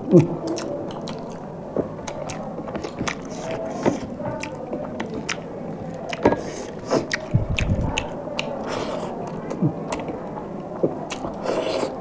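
Close-miked chewing and wet mouth clicks and smacks from people eating rice and fish curry by hand. There is a brief low bump a little past halfway.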